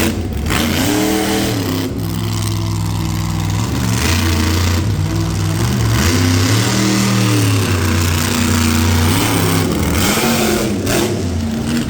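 Monster truck engine revving hard again and again, its pitch climbing and dropping several times as the truck drives its run.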